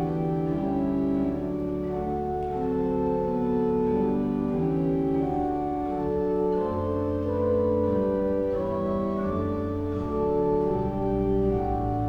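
Pipe organ playing a slow piece in several parts: held chords that move step by step, with deep pedal notes coming in about halfway through.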